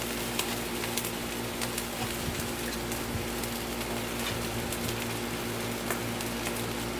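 Fried rice and olive oil sizzling on a hot propane disc cooker: a steady hiss with small scattered pops, over a low steady hum.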